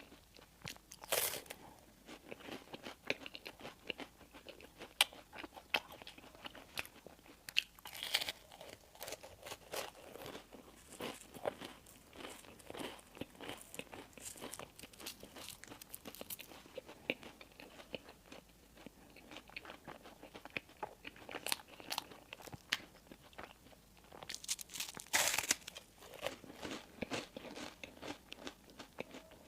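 Close-miked eating: crunchy bites into crisp bread and steady chewing. Louder crunches come about a second in, around eight seconds in, and again around twenty-five seconds in.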